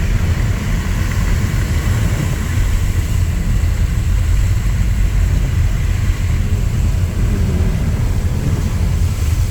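Steady road noise inside a moving car in heavy rain: a strong low rumble from the engine and tyres on wet road, with an even hiss of rain and spray.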